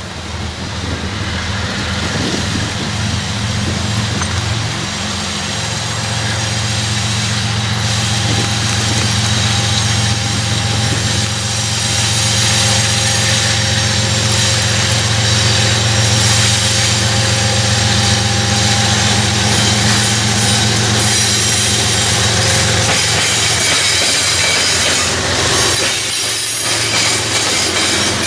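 CSX freight train's diesel locomotives approaching and passing close by: a steady deep engine drone that grows louder, then wheel and rail noise as the units go by near the end.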